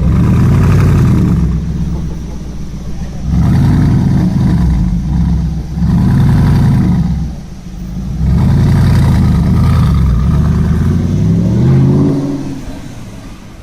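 Audi R8 engine revved repeatedly through its exhaust: four blips, the last held for several seconds before the revs fall away near the end.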